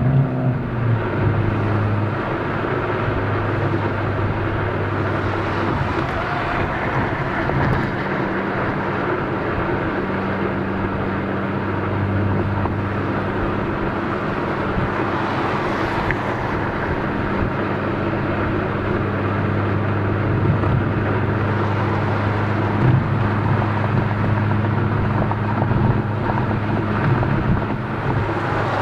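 Exhaust of a Honda Civic Type R (FK8) with its 2.0-litre turbocharged four-cylinder, heard from a microphone at the exhaust, with an RV6 catted downpipe, aFe front pipe and stock cat-back. It runs with a steady low drone that drops in pitch about a second in and then holds fairly even.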